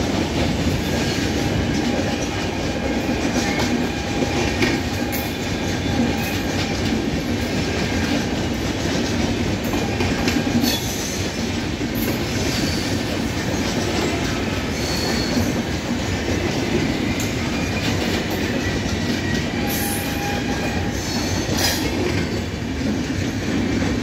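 Indian Railways LHB passenger coaches rolling past at speed: a steady rumble of wheels on rail, broken by irregular clicks and clanks over rail joints. Brief metallic wheel squeals come through about two-thirds of the way in and again near the end.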